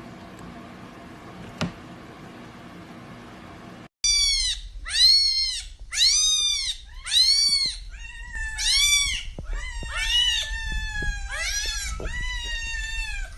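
A cat meowing over and over: after a few seconds of faint background noise with a single click, a quick run of short meows, then longer drawn-out meows.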